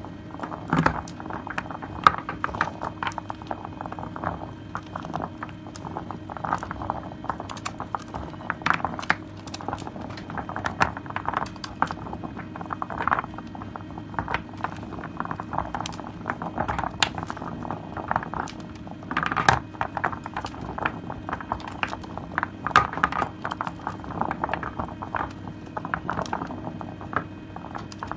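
Hands squeezing and working soaked soap and its foamy lather: continuous irregular wet squelching with many small clicks and crackles.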